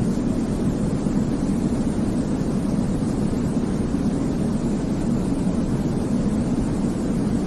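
Steady synthetic white noise for baby sleep, deep and rumbling rather than hissy, unchanging throughout.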